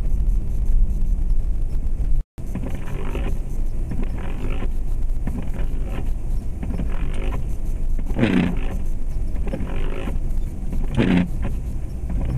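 2004 Jeep Grand Cherokee's 4.7 L V8 and tyres rumbling steadily while driving, heard from inside the cabin, with a repeated sweeping swish about every second and a half. The sound cuts out briefly about two seconds in.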